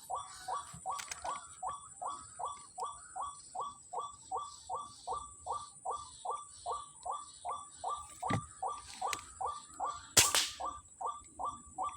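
White-breasted waterhen (ruak-ruak) call: a fast, even series of short downward-sliding notes, about three a second. A short sharp swishing burst about ten seconds in is the loudest sound, over a faint steady high whine.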